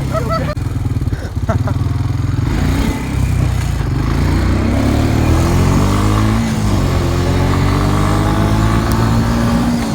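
ATV (four-wheeler) engine running under way, revving so its pitch climbs, drops back and climbs again as it speeds up.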